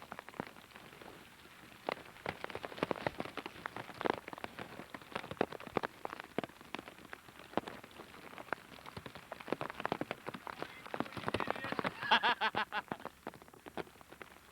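Rain falling, its drops hitting a hard surface close by as a dense, irregular run of sharp taps. A voice is heard briefly near the end.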